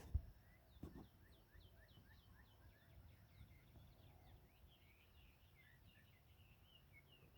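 Faint bird chirping: a long run of short, quick, falling chirps, a few each second. A couple of light knocks come in the first second.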